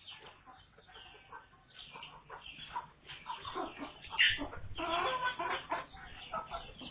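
Bird clucking and chattering: many short, irregular calls that grow louder about halfway through.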